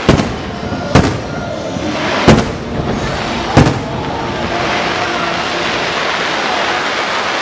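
Aerial fireworks bursting: four loud bangs about a second apart, each trailing off briefly, followed by a steady wash of noise.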